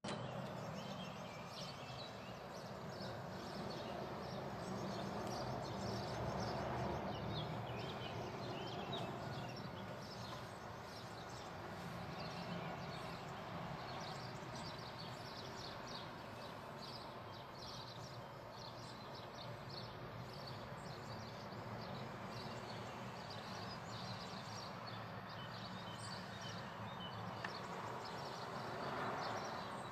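Faint outdoor ambience: small birds chirping repeatedly over a steady low background hum.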